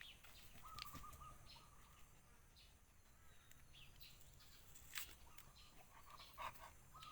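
Near silence with faint, repeated high bird calls and a few small clicks.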